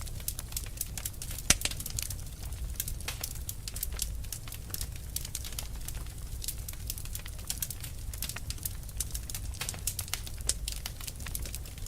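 Fire crackling: dense, irregular small pops and snaps, one sharper pop about a second and a half in, over a steady low rumble.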